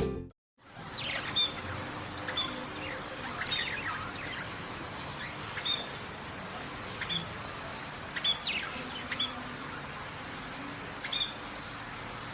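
A songbird repeating short, high chirping calls, each a bright note with quick downward-sweeping whistles, every one to two seconds over a steady background hiss.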